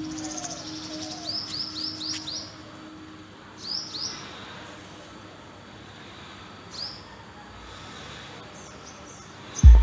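Songbird chirping: a quick run of about five high, downward-sliding chirps about a second in, then single chirps several seconds apart over faint outdoor background. Deep, heavy beats of music begin at the very end.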